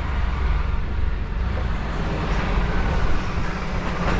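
Diesel truck engine running steadily as the truck moves slowly, a low even hum with some road noise.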